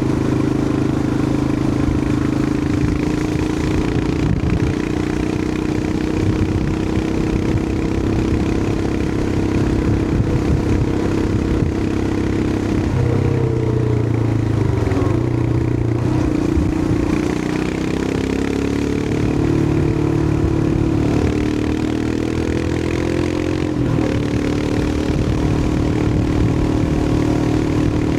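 Royal Enfield Himalayan 411's air-cooled single-cylinder engine running steadily under way, with wind and road noise. Its note falls and climbs again about halfway through, and shifts once more near the end.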